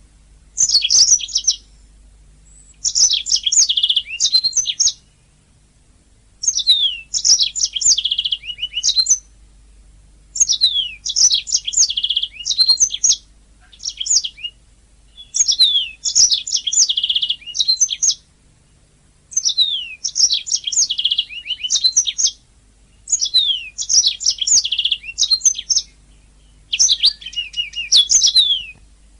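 Domestic canary singing: a run of phrases, each one to three seconds long, made of rapid high chirps, trills and quick downward-sweeping notes, with short pauses between them. A faint low hum lies under the song.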